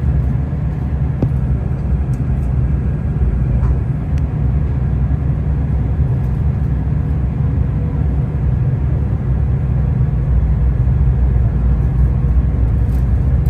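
Steady low rumble of a train running, with a few faint clicks.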